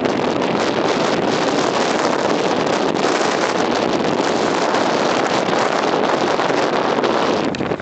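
Blizzard wind blowing hard and steadily, a dense rushing noise, dipping briefly near the end.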